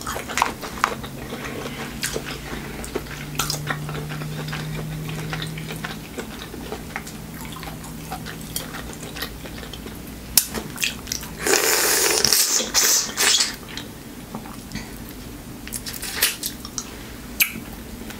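A person eating corn and shrimp close to the microphone: chewing with wet mouth clicks and smacks. A louder noisy stretch lasts about two seconds, roughly two-thirds of the way through.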